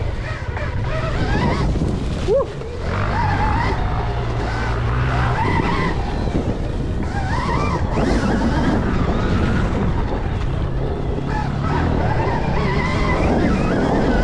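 Stark Varg electric dirt bike being ridden in its 125-equivalent power mode: its electric motor whines, the pitch rising and falling again and again with the throttle, over wind and tyre noise.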